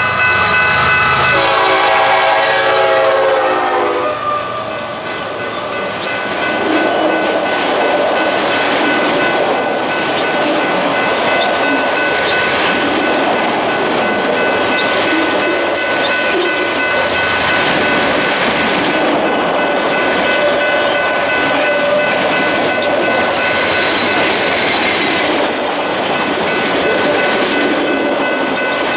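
Locomotive horn sounding, its chord dropping slightly in pitch as the train passes, then cutting off about four seconds in. Train cars then roll by with a steady rumble, clickety-clack and a thin high ringing from the wheels on the rails.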